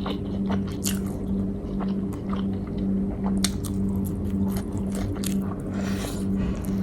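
Close-up chewing and biting of food: wet mouth sounds with small clicks and crunches, over a steady low hum.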